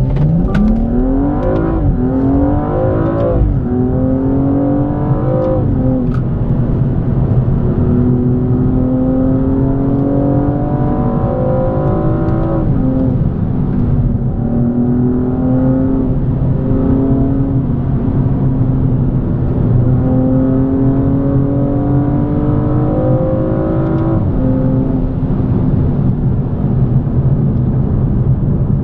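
BMW M235i's turbocharged 3.0-litre straight-six under hard acceleration from low speed, heard from inside the cabin. The engine pitch climbs through each gear and drops sharply at about five quick upshifts, then settles to a steadier drone for the last few seconds.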